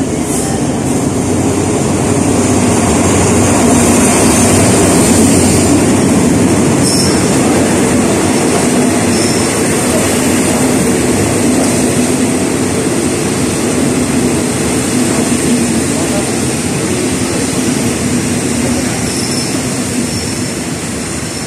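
Diesel-hauled passenger train pulling into the station. The locomotive and then the carriages roll past with a steady rumble of wheels on the rails, loudest a few seconds in, while a high squeal runs over it as the train slows to a stop.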